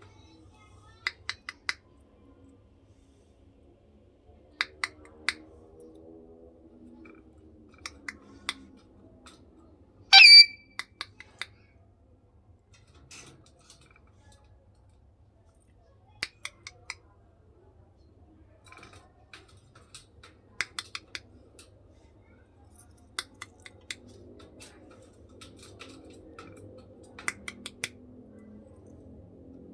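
A parrot making quick clusters of sharp beak clicks, three or four at a time every few seconds, with one brief, loud, shrill squawk about ten seconds in.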